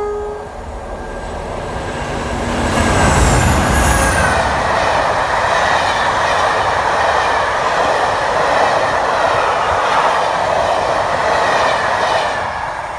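Diesel-hauled passenger train passing at speed. The locomotive's engine swells to its loudest about three seconds in, its pitch dropping as it goes by. Then a long run of coaches rushes past, wheels on the rails, before fading near the end.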